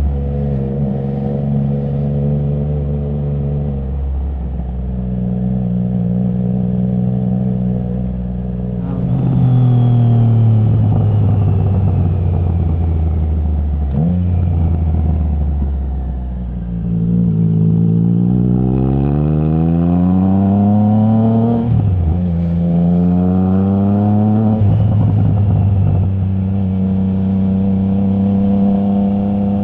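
Triumph Trident 660's inline three-cylinder engine through a Zard stainless full exhaust with the baffle removed, ridden on the road. It runs at a steady speed, breaks off briefly for quick gear changes a few times, and climbs in revs twice in the second half before settling again.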